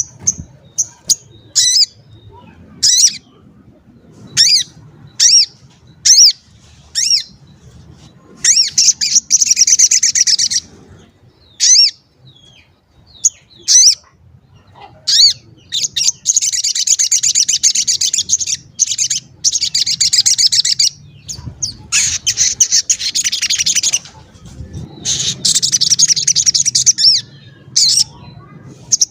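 A sogon songbird calling: single sharp 'cuit' chirps that sweep downward, about one a second, then long bursts of fast, high, trilled song with short pauses. It is in full song ('gacor').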